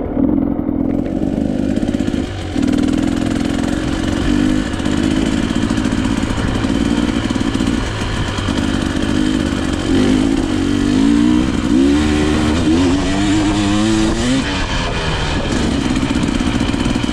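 KTM EXC 300 two-stroke enduro motorcycle engine running continuously, with its pitch rising and falling several times as the throttle is worked about two-thirds of the way through.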